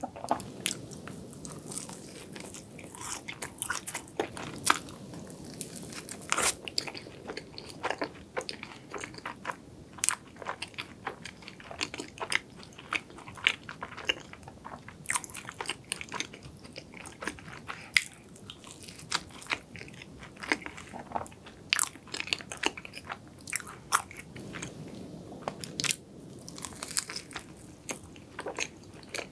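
Close-miked chewing and biting of a cronut, a flaky croissant-doughnut pastry, with many sharp crackles of the crisp layers all through the chewing.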